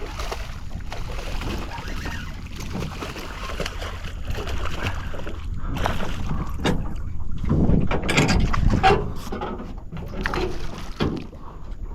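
Wind buffeting the microphone in a steady low rumble, with water splashing around a small fishing boat and scattered knocks as a hooked redfish is fought and landed.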